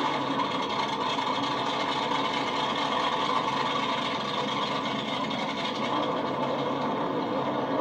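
A race-vehicle engine running steadily, with no clear revving up or down.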